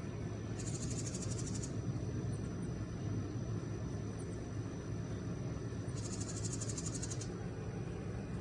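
A wren's scolding chatter: two quick, dry rattles about a second long each, several seconds apart, aimed at a person nearby as a protective warning. A steady low rumble runs underneath.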